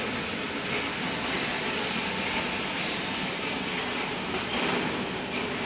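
Vacuum tank truck running: a steady mechanical noise with a hiss.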